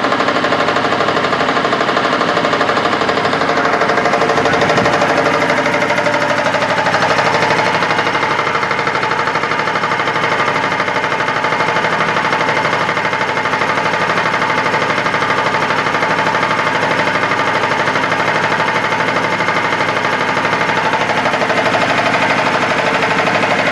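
Air compressor running loud and steady, with a fast, even pulsing beat.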